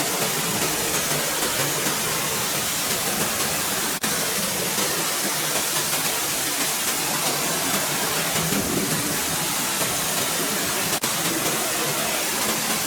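Steady rushing hiss of a spray jet during car cleaning, with two momentary dropouts, about four and eleven seconds in.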